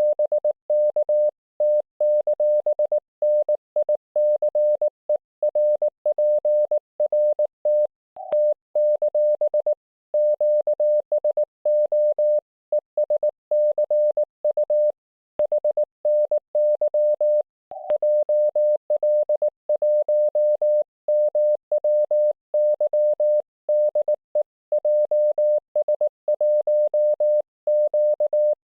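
Morse code (CW) tone from an IC-705 ham radio transceiver's audio: a steady beep of about 600 Hz keyed on and off in dots and dashes, with two short pauses about 10 and 15 seconds in.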